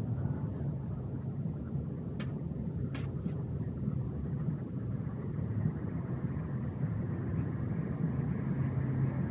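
Steady low rumble of airliner and airport ground noise, with three short sharp clicks about two to three and a half seconds in.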